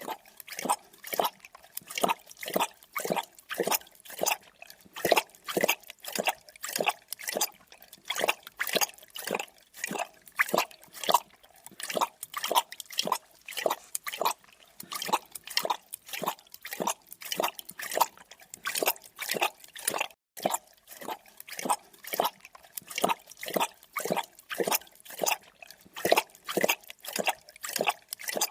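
Creature drinking: an animal lapping liquid in a steady, wet rhythm of about two laps a second, with a short break about two-thirds of the way through.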